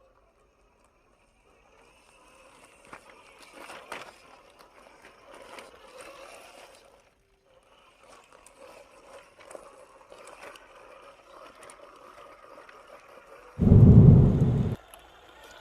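Small electric RC crawler's motor and gears whirring unevenly, with light clicks and rattles as the scale Willys Jeep crawls over terrain. Near the end comes a loud low boom of about a second.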